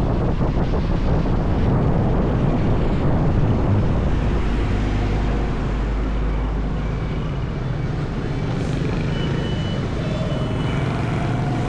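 Motorbike riding along a highway: a steady rush of wind on the microphone over the low rumble of the engine, easing slightly about halfway through.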